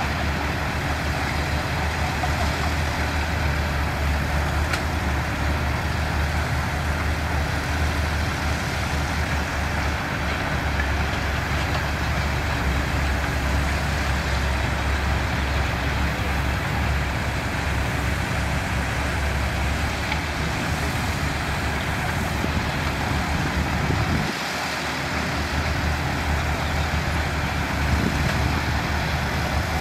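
Diesel engines of heavy construction machinery running steadily with a deep, constant hum, dipping briefly about three-quarters of the way through.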